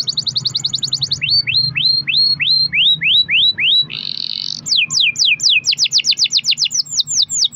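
Canary singing a long rolling song: a fast trill of repeated notes, slowing after about a second to separate upward-sweeping notes at about three a second, a short buzzy burst about four seconds in, then another fast trill of downward-sweeping notes.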